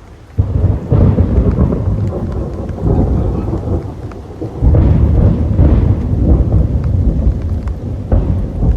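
Thunderstorm: deep rumbling thunder that rolls in about half a second in and surges again about halfway through and near the end, over rain.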